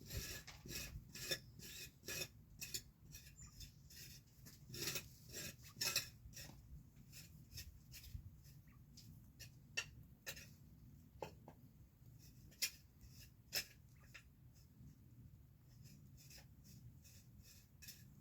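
Irregular sharp clicks and scratchy rustles close to the microphone, many a second for the first six seconds, then sparser single ticks.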